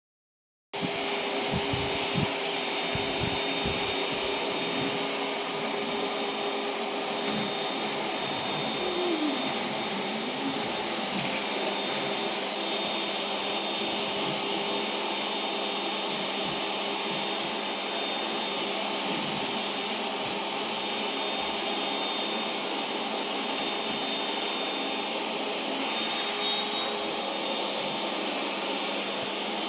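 Vacuum cleaner running steadily with a faint steady whine, with a few knocks in the first few seconds and a brief wavering of pitch about nine seconds in.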